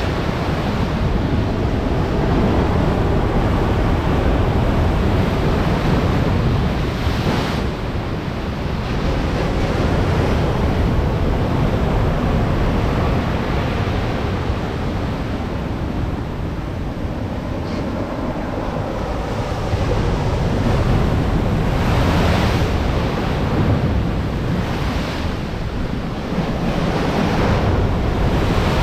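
Storm waves on the Black Sea breaking on the shore in repeated surges, with wind buffeting the microphone.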